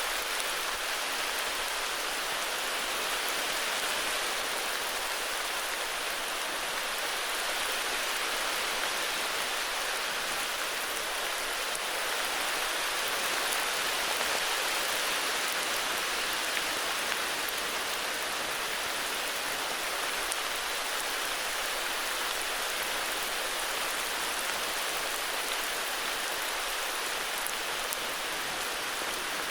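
Heavy rain falling steadily, an even, unbroken hiss of many drops with no lull or thunder.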